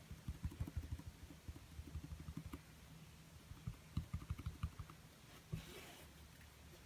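Quick soft taps of a paintbrush on a small stretched canvas, in two rapid runs and then a single tap, followed by a brief rustle near the end.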